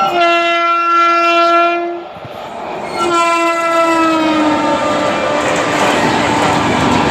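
Indian Railways express train horn: one long steady blast, then a second blast about a second later that drops slightly in pitch. It is followed by the steady rush and rattle of the train running past.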